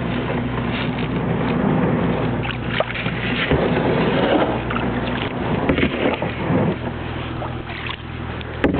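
Kayak paddle strokes splashing and dripping in shallow floodwater, at an irregular pace, over a steady low hum.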